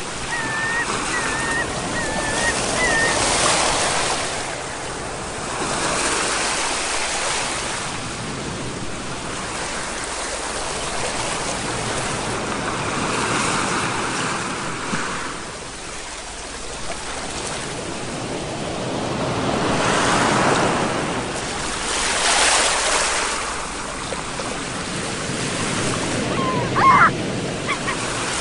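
Sea waves washing onto the shore, the rush swelling and falling back every few seconds. A few short high calls sound in the first three seconds and again near the end.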